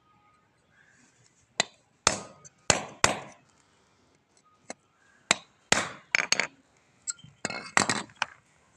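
Hammer striking metal in a dozen or so sharp, ringing blows at irregular spacing, as when a motorcycle chain's link pin is driven out to shorten the chain.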